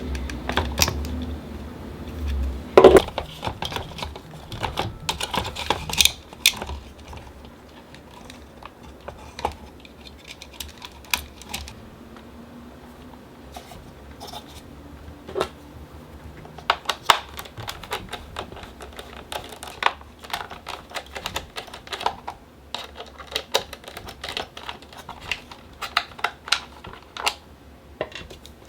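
Light, irregular clicks and taps of plastic fan parts being handled and taken apart, as on a Dyson AM06 bladeless fan under a screwdriver. A low hum fades out about three seconds in.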